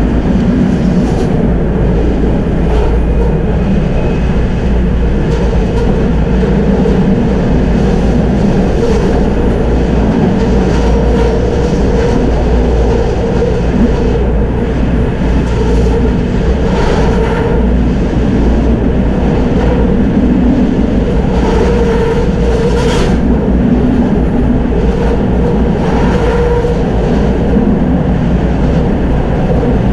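Tram running along its track, a steady rumble with a humming tone, with a few brief clatters from the wheels on the rails in the second half.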